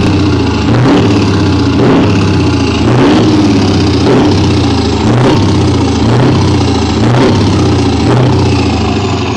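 Scania V8 diesel truck engine being revved repeatedly, its pitch rising and falling about once a second.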